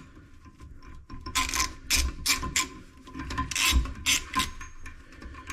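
A wrench working loose the metal bolts that hold a toilet tank to the bowl: a run of irregular rasping, ratcheting strokes from about a second in until near the end.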